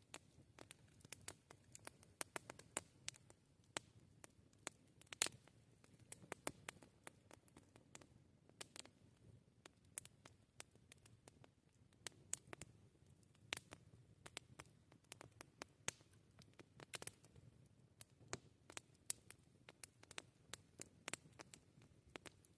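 Wood campfire crackling: irregular sharp snaps and pops, several a second and some much louder than others, over a faint low rumble of the burning fire.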